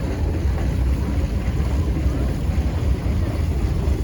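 Wind buffeting the microphone outdoors, heard as a steady, uneven low rumble.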